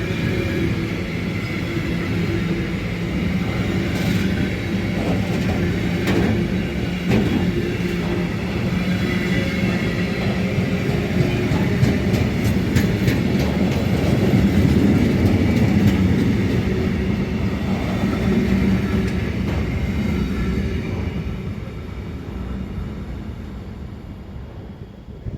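A train running past on the tracks, with a steady running hum and wheels clicking over rail joints; it is loudest around the middle and dies away near the end.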